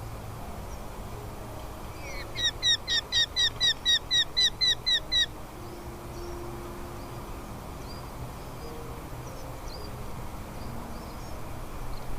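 A falcon calling: a rapid series of about a dozen sharp notes, each dropping in pitch, about four a second for some three seconds. A few faint chirps follow over a steady low background rumble.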